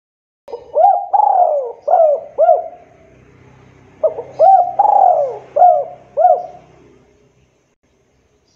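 Spotted dove (tekukur) cooing: two call phrases of four or five short coos each, about three seconds apart.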